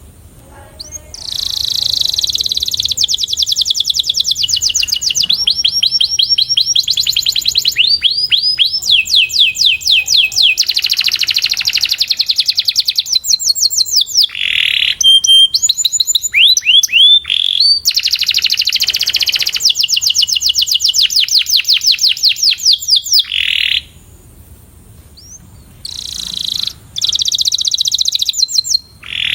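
Domestic canary singing a long song of fast trills and rolls: each phrase is a rapid run of one repeated note, some as quick falling sweeps, and the bird switches phrase every second or two. The song starts about a second in and breaks off for about two seconds near the end.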